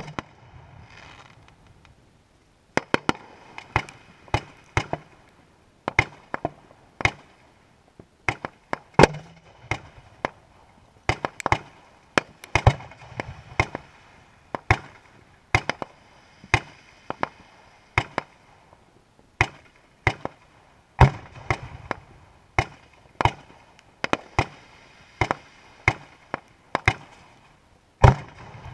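Fireworks going off in a rapid string of sharp bangs, about one to three a second, with a fainter crackle between some of them. The bangs start about three seconds in after a short lull.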